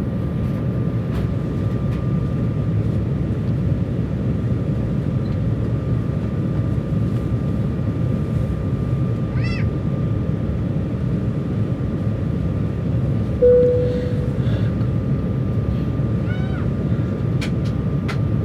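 Steady cabin noise of an Embraer 195 airliner in flight on descent, with a faint steady whine above it. About two-thirds of the way through, a single chime sounds and fades. A few short, high arching cries are heard, from a source that cannot be named.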